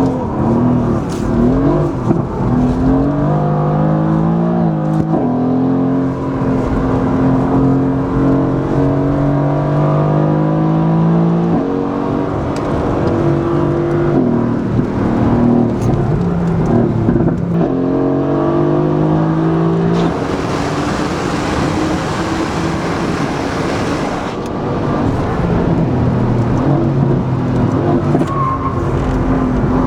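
The twin-turbo V8 of a Mercedes-AMG GT S, running through an Akrapovic titanium Evolution exhaust with its valves fully open in race mode, is driven hard on a track lap. Its pitch climbs, holds and falls back again and again as it revs and changes gear. A rushing hiss joins in for a few seconds about two-thirds of the way through.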